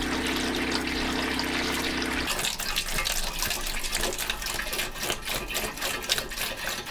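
Electric pump of a diesel heater's coolant system humming steadily, then cutting out about two seconds in, leaving coolant gurgling and splashing as it is poured into the system and air bubbles work through.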